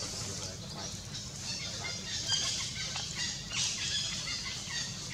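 Small birds chirping in the surrounding trees: a scattering of short, high notes at several pitches, over a steady low background rumble.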